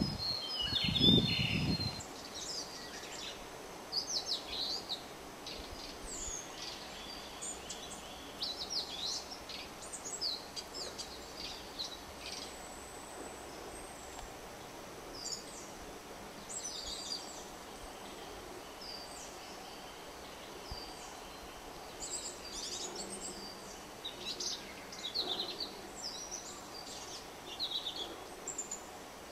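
Narcissus flycatcher singing: short phrases of high chirps and quick down-slurred whistles, repeated every few seconds with pauses between. A low rumbling thump sounds in the first two seconds.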